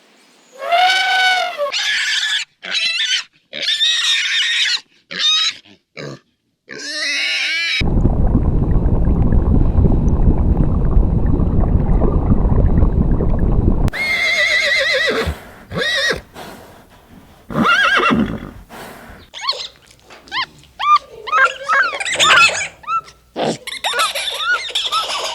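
A run of farm animal calls. Several pitched, bleat-like cries come in the first seven seconds, then about six seconds of steady, dense low noise, then a mix of shorter cries and squeals to the end.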